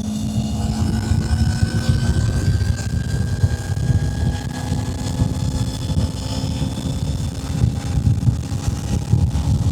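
Kawasaki Z500 parallel-twin engine running at steady cruising revs on the move, its pitch creeping slowly up. Heavy wind rumble on the microphone.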